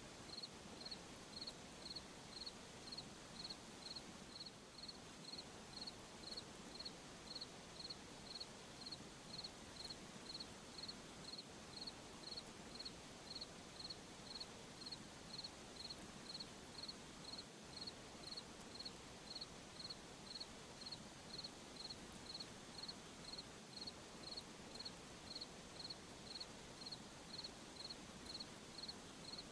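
A cricket chirping at an even pace, a little under two high chirps a second, over a faint steady hiss of night ambience.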